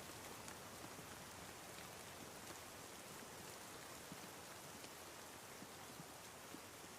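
Faint steady rain, an even hiss with scattered small drop ticks.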